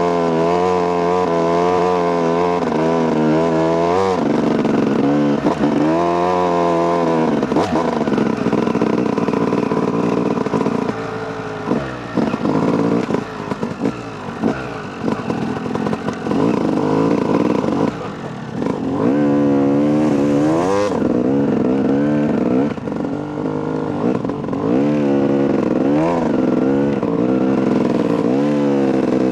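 Two-stroke Yamaha YZ250 dirt bike engine being ridden, its pitch climbing and dropping again and again with throttle and gear changes. In the middle stretch the engine note turns choppier and more broken before it picks up and revs hard again.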